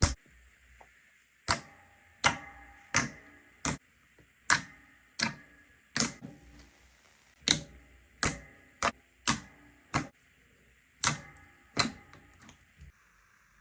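Slime being pressed and poked, giving a run of about fifteen sharp pops at irregular intervals, some with a short ring after them, fading to a few faint ones near the end.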